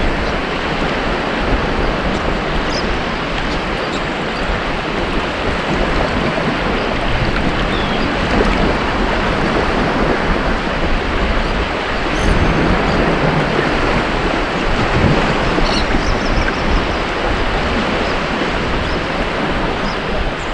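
Ocean surf washing onto a beach: a continuous rushing wash with slow swells as waves break and draw back, with no distinct break standing out.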